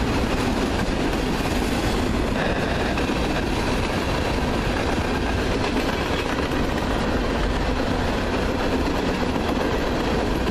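Two freight trains rolling past on adjacent tracks, intermodal trailers on flatcars and a train of coal hopper cars: a steady, dense rumble of steel wheels on rail.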